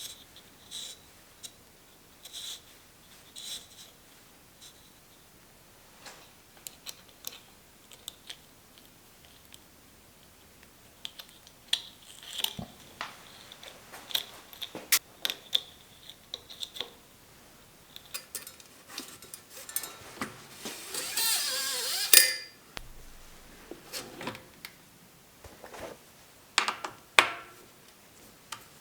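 Scattered metallic clicks and clinks of bicycle parts and hand tools being handled, with a loud rasping burst lasting about two seconds near two-thirds of the way through.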